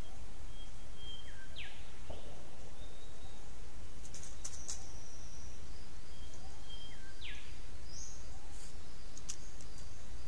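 Wild birds calling: twice, a short steady whistle followed by a sharp, fast upward-sweeping note, with fainter chirps and whistles between, over a steady low hum.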